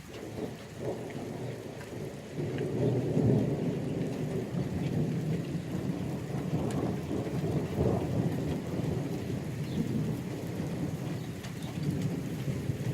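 Long rolling thunder over steady rain. The rumble swells about two and a half seconds in and keeps rolling.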